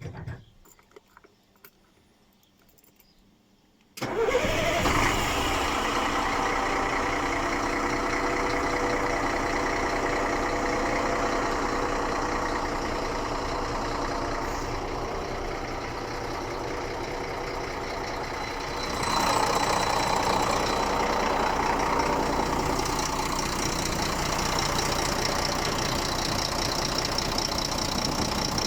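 Scania R114L 380 truck's 11-litre six-cylinder diesel starting suddenly about four seconds in, after a few faint clicks, then idling steadily. It grows louder about two-thirds of the way through and stays that way.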